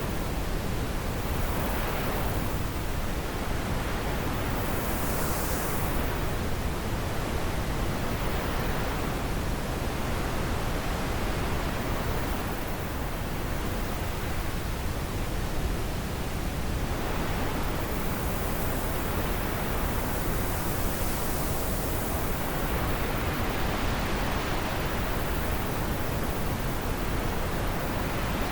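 Wind blowing steadily through trees, a continuous rushing hiss that swells and eases in slow gusts every few seconds.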